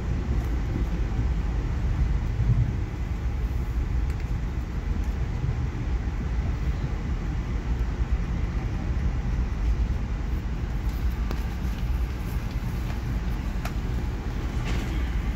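Steady low rumble of a passenger train running at speed, heard from inside the car: wheels on the rails and the car body, with a few light clicks near the end.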